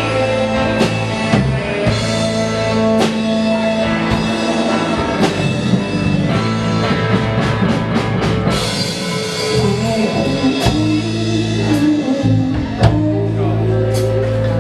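Live rock band playing: guitars, bass and drum kit, with cymbal strikes through the passage.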